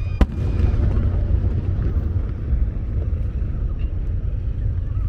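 Fireworks show: a steady low rumble with one sharp bang just after the start.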